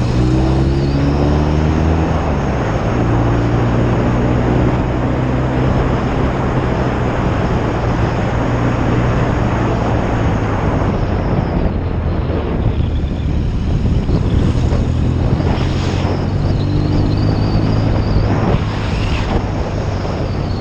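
1972 BSA Lightning 650's parallel-twin engine running under way, its note rising at the start and then holding steady. Wind rushes over the camera microphone, growing louder over the second half and partly covering the engine.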